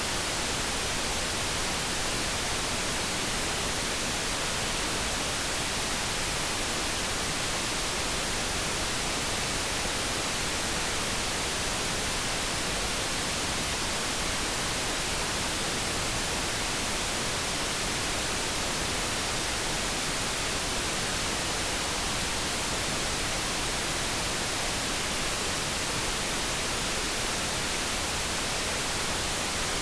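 Steady synthesized noise, an even hiss that does not change, with no kettle tone standing out.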